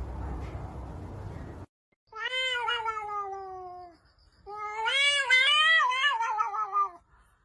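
A low steady noise cuts off, then a cat gives two long, drawn-out meows: the first slides down in pitch, the second wavers up and down.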